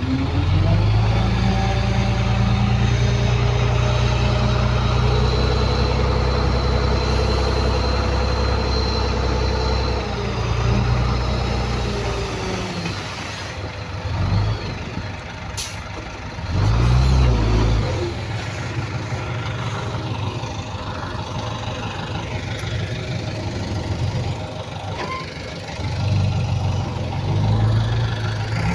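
Heavy diesel engine of earthmoving machinery running loud and steady, then easing off and surging in short bursts as it works. One brief sharp high sound falls about halfway through.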